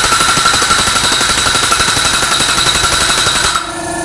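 A power tool hammering rapidly, a dense rattle of blows at high level, then a steadier machine hum with lower pitches takes over near the end.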